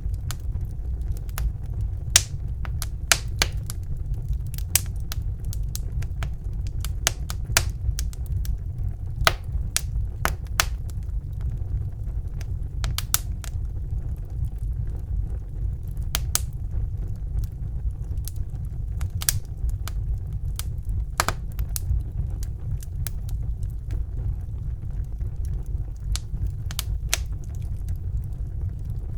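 Wood fire burning in a fireplace: a steady low rumble of the flames with frequent irregular crackles and sharp pops from the burning logs.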